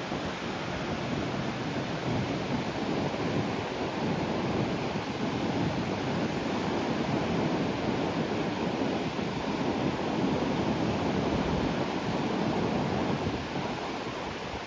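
Sea waves breaking and washing onto the shore: a steady rushing surf that swells through the middle and eases slightly near the end.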